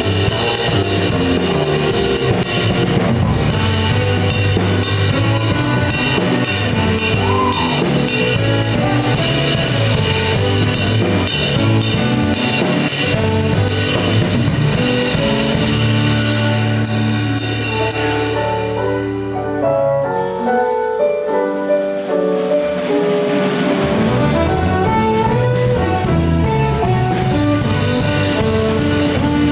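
A live instrumental band plays with drum kit, bass, guitar, piano and saxophone. About two-thirds of the way through, the drums and bass drop out for a few seconds and leave only pitched instrument lines. Then the full band comes back in.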